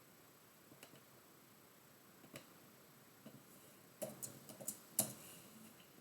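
Faint, scattered small clicks and taps: a few single ones, then a quick cluster about four seconds in, the loudest about five seconds in.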